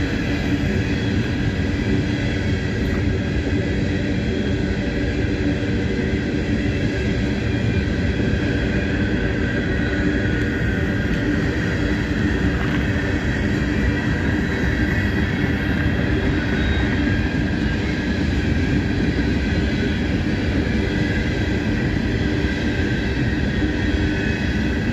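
Coal train's cars rolling past at trackside, a steady unbroken rumble of steel wheels on rail with a few constant ringing tones over it.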